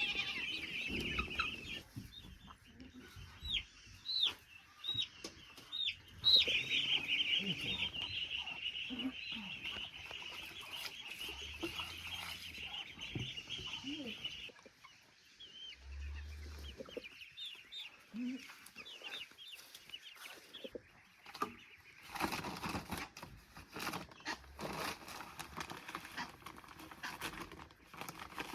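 A crowd of poultry chicks peeping continuously in high, dense chirps, with a few louder single calls standing out. The peeping fades about halfway through, and a noisy, hiss-like sound fills the last few seconds.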